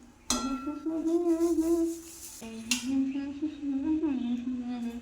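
A person humming wordless closed-mouth 'mm' sounds in two long phrases whose pitch wavers up and down, with a short sharp clink about two and a half seconds in.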